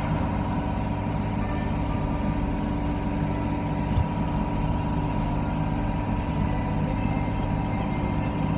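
Car wash machinery running with a steady drone: a heavy low rumble under constant humming tones, with a single knock about four seconds in.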